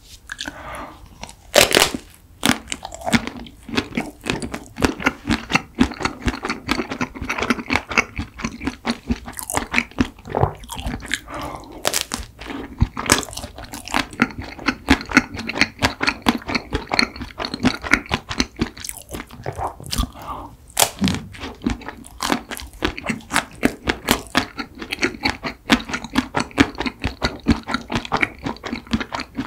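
Chewing and crunching a chocolate-coated ice cream treat: a loud crunch about a second and a half in, then a dense, irregular run of crisp crunches and chewing throughout.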